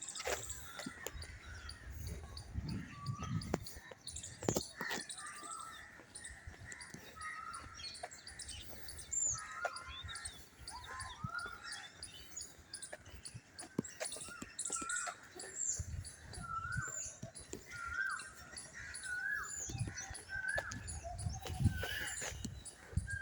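Several birds chirping and calling, with short hooked notes repeated roughly every second, most steadily in the second half, and higher thin calls over them. A few low rumbles and sharp knocks come and go underneath.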